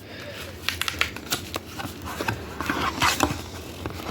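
Hands unwrapping and handling a trading-card box and its packaging: a busy run of small crinkles, rustles and clicks.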